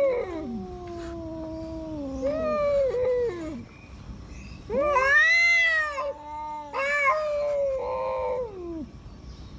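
Two tomcats yowling at each other in a rivalry standoff: long, drawn-out, wavering caterwauls, the two voices overlapping at first, with a louder rising-and-falling yowl about halfway through.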